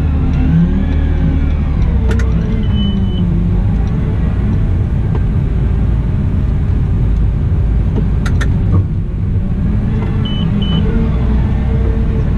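Cat 972M XE wheel loader's diesel engine running steadily under work, its pitch rising and falling as engine speed changes. Short high electronic beeps sound once about 3 s in and twice about 10 s in.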